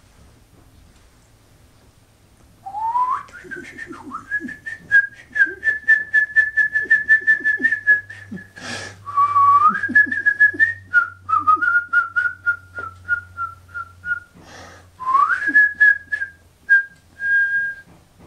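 A person whistling through pursed lips: a rising glide into a long, rapidly fluttering warble on one high note, imitating a nightingale's song. It dips and climbs back twice, is broken by two short intakes of breath, and ends in a few short notes.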